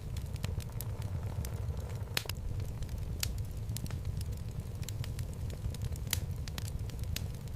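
Wood fire burning in a fireplace: a steady low rumble of flames with irregular sharp crackles and pops from the logs, the strongest about two seconds in and again about six seconds in.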